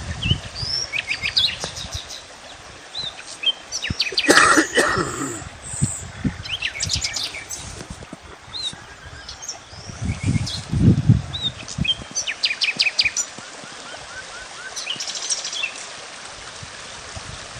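Several small birds chirping and trilling in short, varied calls over a steady background hiss. A loud noisy burst comes about four seconds in, and low thumps sound around eleven seconds.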